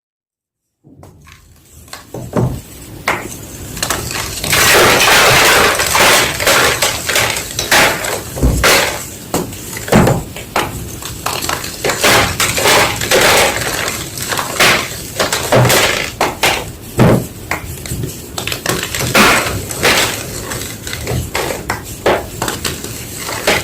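White gym chalk being crushed: dense crunching and crumbling with many sharp cracks, starting about a second in and loudest for a stretch a few seconds later.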